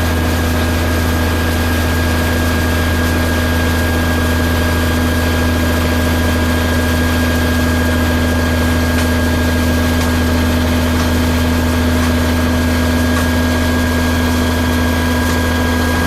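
Concrete pump truck's engine running steadily: a constant low drone with a few steady hums above it, unchanging throughout.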